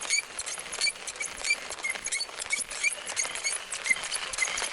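Bow drill spindle squeaking against the hearth board in short repeated chirps, about three a second, as the bow is sawed back and forth to build an ember, with smoke already coming off.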